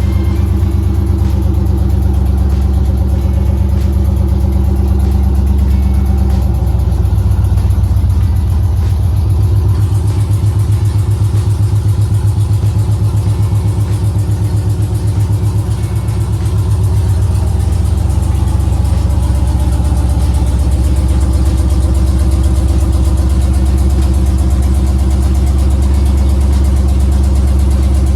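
LS1 5.7-litre aluminium-block V8 running steadily at idle, terribly loud, on one of its first runs after an engine swap. Its tone shifts slightly about a third of the way in.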